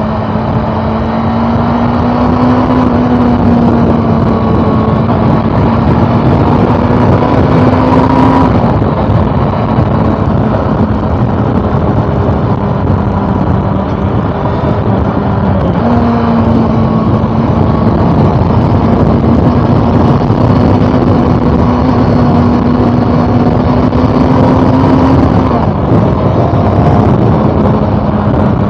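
Honda CB400 Super Four's inline-four engine under way. Its note climbs slowly, drops suddenly about a third of the way in, jumps back up about halfway, climbs again and drops once more near the end, like gear changes.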